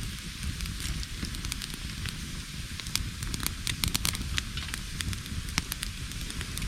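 Wood campfire of scavenged branches and driftwood burning, crackling with frequent sharp pops, densest around the middle, over a steady low rumble.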